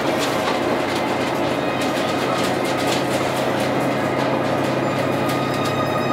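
Hisatsu Orange Railway's Orange Shokudo diesel railcar, heard from aboard as it pulls out of a station: a steady engine hum over the rolling of the wheels on the rails, with faint clicks over rail joints.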